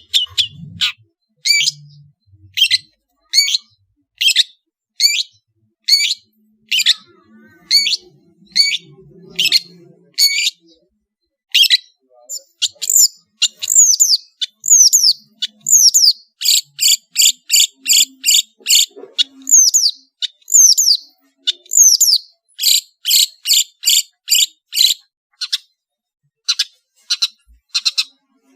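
Long-tailed shrike (cendet) singing a varied song: sharp high notes repeated about twice a second, then downward-slurred notes and fast rattling runs of notes about halfway through and again later, thinning out near the end.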